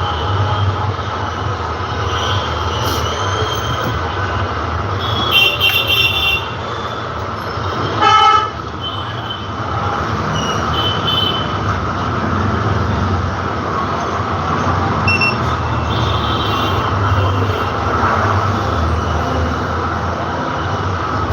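Steady street traffic noise with vehicle horns sounding. There are short high toots about five to six seconds in, and one loud horn blast about eight seconds in.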